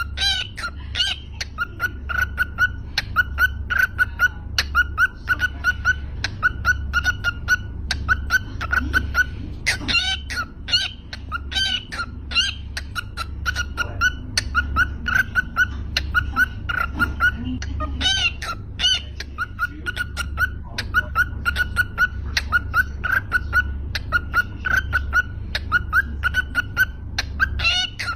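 A pet bird calling in long runs of short, pitched chirps, several a second, broken by brief pauses, over a steady low hum.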